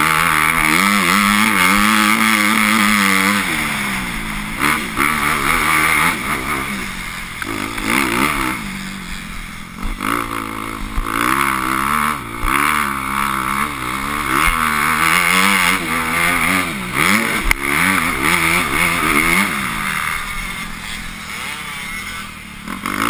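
Motocross bike engine revving hard and easing off again and again, the pitch rising and falling every couple of seconds as it rides the track.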